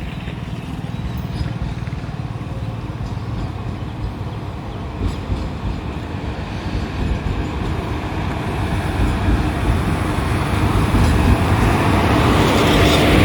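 Passenger train rolling along the station platform, a steady rumble that grows louder toward the end.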